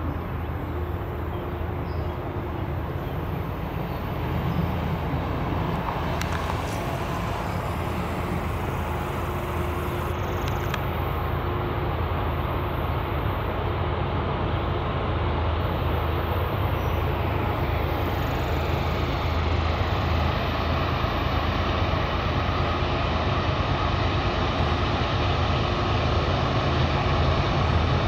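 Low, steady diesel rumble of an approaching CSX freight train, growing slowly louder.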